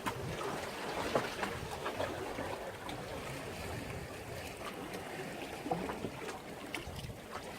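Sea waves washing and lapping against a breakwater: a steady wash of water with many small splashes and trickles.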